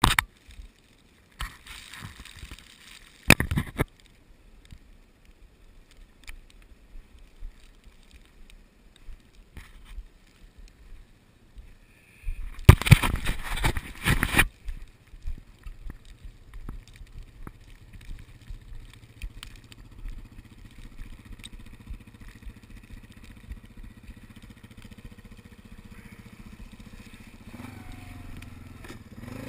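Scattered knocks and handling noise, with a loud rough burst of about two seconds near the middle. After it a Yamaha Wolverine ATV's engine runs low and steady, its pitch rising near the end.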